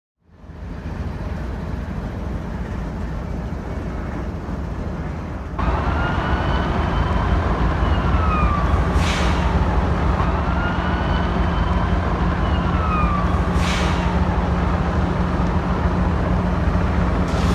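Emergency vehicle siren wailing slowly up and down over a steady low engine rumble. The sound steps up suddenly about five and a half seconds in, and two short hissing bursts come later.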